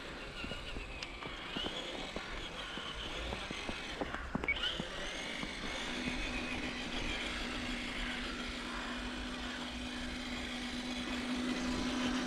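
Electric RC truck driving: its motor and geartrain whine steadily, with scattered faint clicks, and a steady hum sets in about six seconds in.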